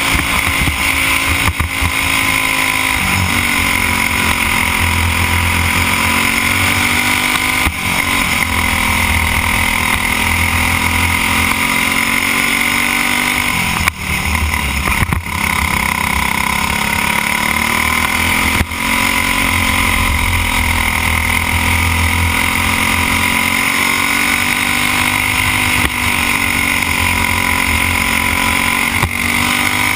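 Briggs & Stratton Animal single-cylinder four-stroke kart engine running hard at race speed. Its pitch sags several times as the engine comes off the throttle and then climbs again under acceleration.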